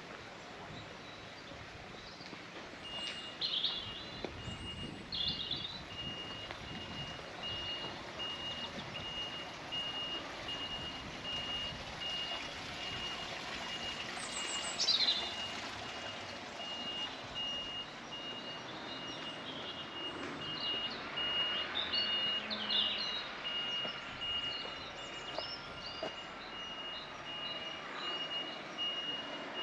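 A vehicle's reversing alarm beeping steadily in a regular high-pitched pattern, starting a few seconds in, over outdoor street noise. Birds chirp now and then, with one louder falling call about halfway through.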